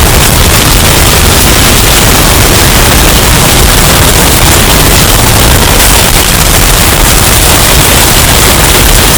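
Hurricane wind sound effect, bass boosted and overdriven into harsh, clipped distortion: a steady, very loud wash of noise, heaviest in the bass, with no let-up.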